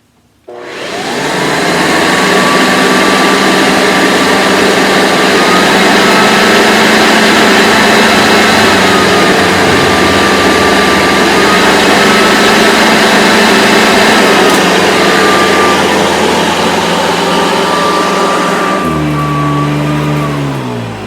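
Hoover Decade 80 upright vacuum cleaner switched on at its high 'surge' power setting: the motor spins up within a second or two to a loud, steady whine, then slows with a falling pitch near the end.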